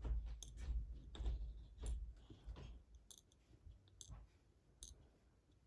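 Small irregular clicks and metallic ticks of a disassembled padlock core and its pin tumblers being handled and tipped out, with a low handling rumble in the first two seconds.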